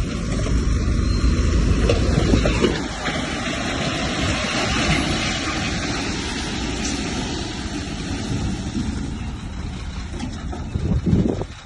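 Heavy earthmoving machinery at work: a diesel engine running under load with a dense, low rumble, loudest in the first couple of seconds, then cutting off suddenly near the end.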